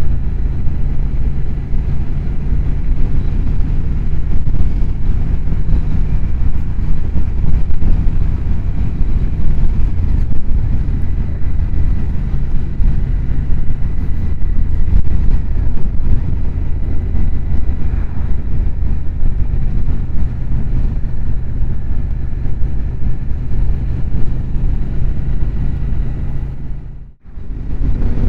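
Motorcycle engine running steadily while riding, mixed with wind and road noise as heard from on the bike. The sound cuts out abruptly for a moment near the end.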